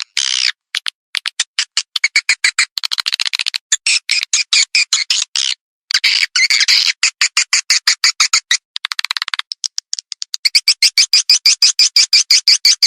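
Swiftlet lure call recording: dense high twittering and rapid trains of clicking chirps, broken by brief gaps. Near the end it settles into an even chirp about five times a second. It is a swiftlet calling sound of the kind played from swiftlet houses to draw the birds in to roost and nest.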